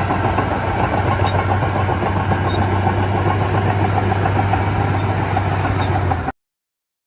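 Radio-controlled construction model running with a steady, engine-like drone and a strong low hum, cutting off abruptly about six seconds in.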